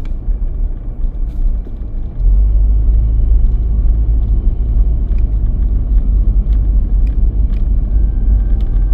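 Car driving, heard as a steady low rumble of road and wind noise that gets suddenly louder about two seconds in.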